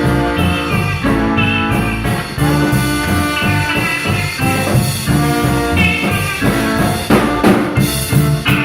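Live instrumental band playing: a drum kit keeps a steady beat under held melody notes.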